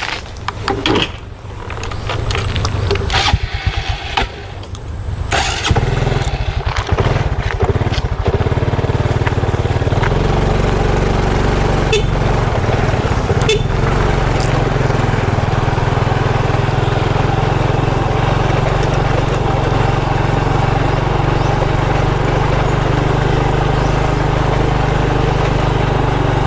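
Motorcycle engine starting after a few seconds of handling noise, then running steadily.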